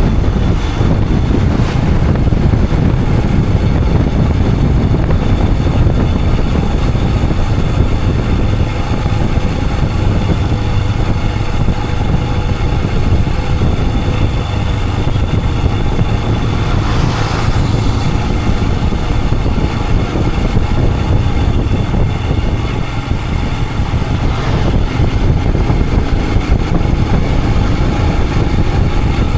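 Royal Enfield Himalayan 411's single-cylinder engine running steadily on the move, heavy in the low end, heard from the riding position. A brief swell of hiss comes about halfway through.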